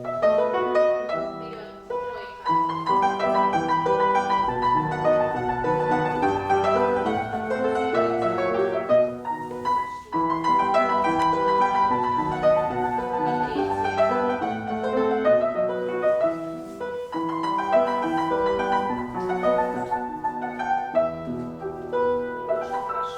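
Piano playing classical-style ballet class accompaniment, in repeating phrases with short breaks about 2, 10 and 17 seconds in.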